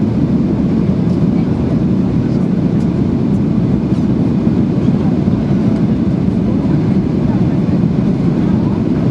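Steady cabin noise inside a Boeing 737-800 airliner: an even, loud rumble of the engines and airflow, heaviest in the low range.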